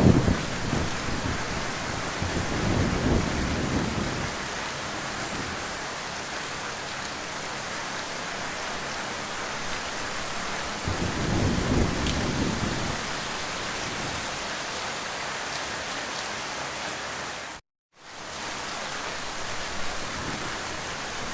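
Heavy, steady rain with low rolls of thunder rumbling several times, at the start, a few seconds in, midway and again near the end. About three-quarters through, all sound cuts out for a split second, as at an edit join.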